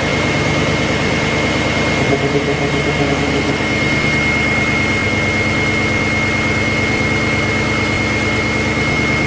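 Engine idling with a steady high-pitched whine over its running drone: the sound of a chain rubbing on worn plastic timing chain guides.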